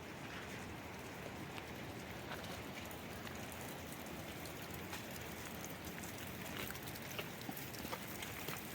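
Steady hiss of falling water, rain or rushing water, with scattered faint light ticks.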